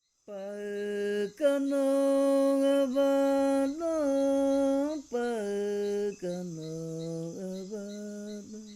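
A single voice sings a slow, chant-like melody in long held notes that glide from one to the next. A soft, steady ticking runs behind it, about three ticks a second.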